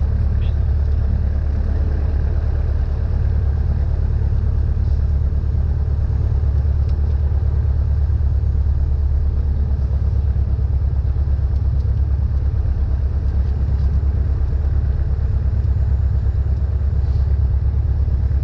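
Cessna 172N's four-cylinder Lycoming engine and propeller running with a steady low drone.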